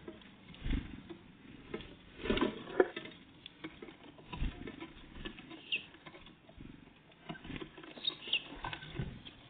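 Great tits and blue tits feeding: irregular pecking taps, knocks and scrabbling of small birds at the food, with a couple of brief high chirps in the second half.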